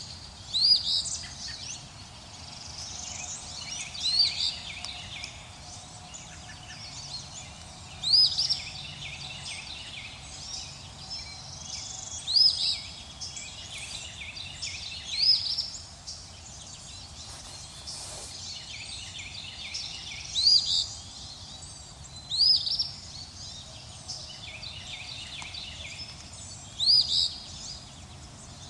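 Wild birds chirping: a loud call of quick rising chirps comes every three to five seconds, over quieter, busier chirping from other birds and a faint steady hiss.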